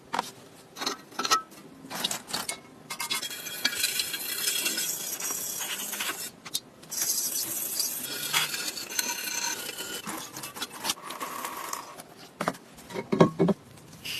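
Small metal parts of a kerosene stove clinking, scraping and knocking as they are handled, with a few louder clanks near the end.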